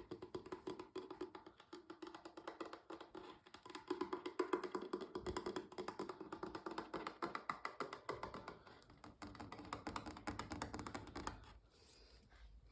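Fast fingertip and fingernail tapping on a hollow object, a rapid run of many taps a second with a hollow knock. It stops about a second before the end.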